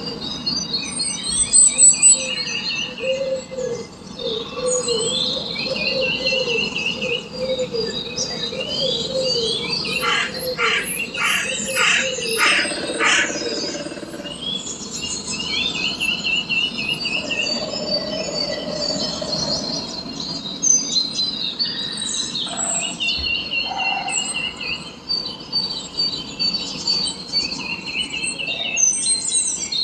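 Several birds chirping and calling at once, with overlapping short trills and whistles, and a run of about five quick loud notes around the middle.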